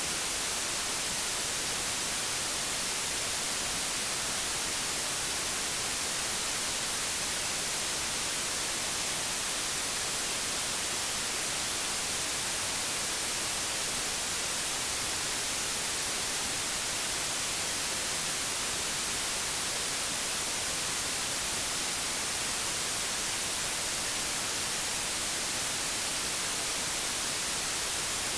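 Old analogue television static: a steady, even hiss, strongest in the high frequencies.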